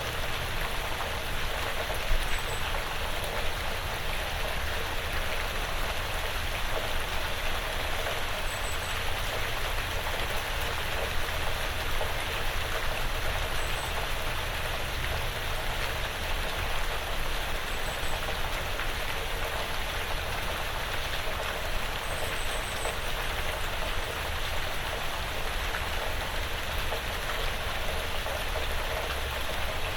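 Steady, gentle rain pattering on a porch roof and falling through the surrounding woods, with an occasional louder single drop.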